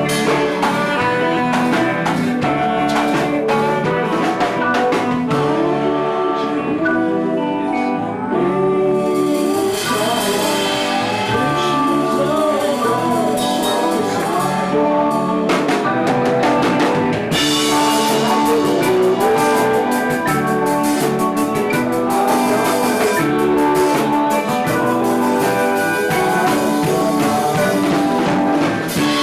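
Live band playing a song, with guitar over a drum kit.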